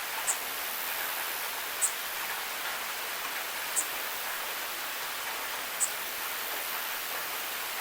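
Steady hiss of falling rain, with a short high tick about every two seconds.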